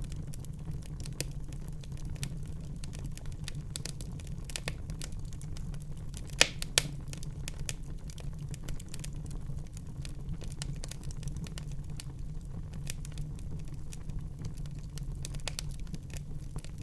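Wood fire burning in a fireplace: irregular crackles and pops over the steady low rumble of the flames, with two louder snaps close together about six and a half seconds in.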